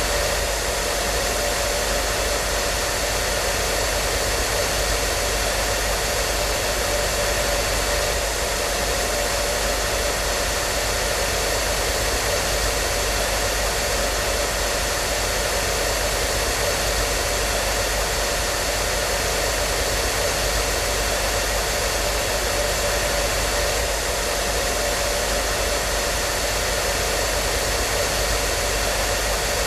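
Hair dryer running continuously: a steady whooshing hiss of blown air with a constant motor hum, no change in speed or level.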